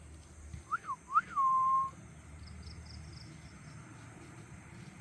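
A person whistling to call a cat: two quick up-and-down whistles followed by one held note, about a second in.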